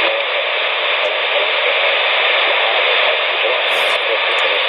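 CB radio receiver hissing with steady static on an open single-sideband channel, with no station coming through. The hiss is narrow and radio-thin.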